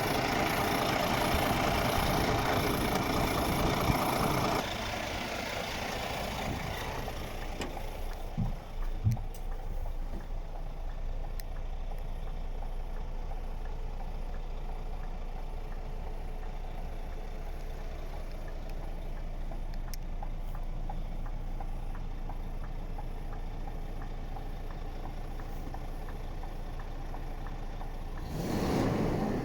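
Scania G400 truck's diesel engine idling steadily. It is louder for the first few seconds, then steps down to a quieter, even hum, with a couple of brief thumps about nine seconds in.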